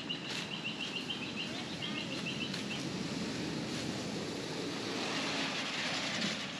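A bird calls in a quick run of high chirps for the first couple of seconds, over a steady low outdoor rumble. A rushing hiss swells near the end.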